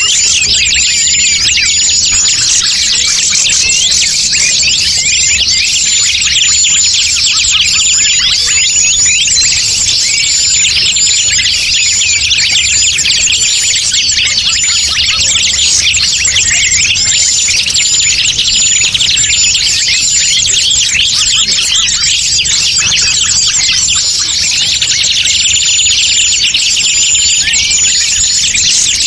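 Dense chorus of many small forest birds chirping and twittering without pause, with a short high note repeating about once a second through much of it: a bird-lure (pikat) recording, used to draw wild birds in.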